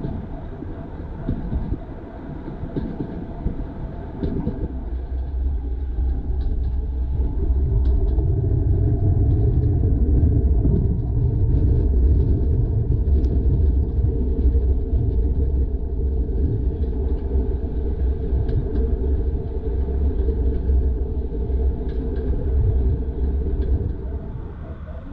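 Heritage railway train running, a steady low rumble that grows louder about eight seconds in and eases off near the end.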